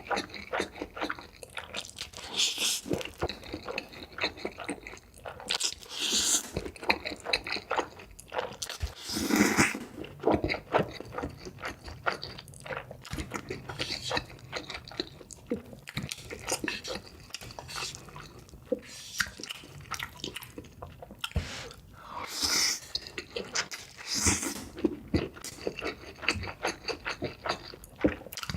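Close-miked eating of ramen: steady chewing with many short wet mouth clicks, broken by several longer slurps of noodles.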